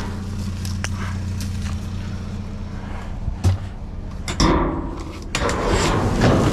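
Junk clattering and scraping as items are pulled out of a dumpster: a few scattered knocks, then a louder rattling clatter over the last two seconds, over a steady low hum.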